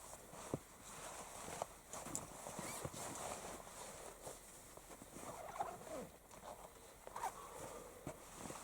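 Faint scattered clicks, knocks and rustles of people moving about and handling clothing and gear.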